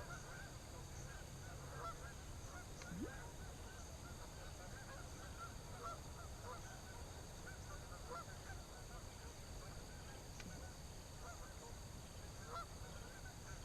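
Geese honking in the distance: many short, faint calls overlapping throughout.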